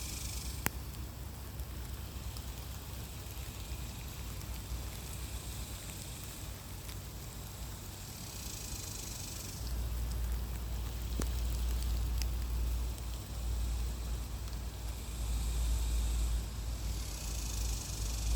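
Outdoor summer ambience: a high buzzing hiss, typical of cicadas, swells and fades twice over a low rumble that grows louder about halfway through. A few faint sharp clicks can be heard.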